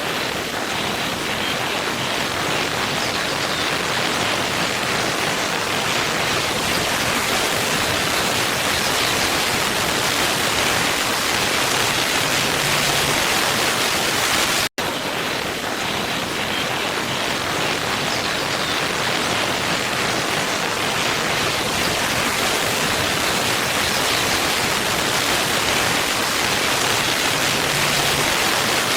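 Steady rushing hiss of a waterfall, strongest in the upper range. About halfway through it drops out for an instant and starts over: a short recording played on a loop.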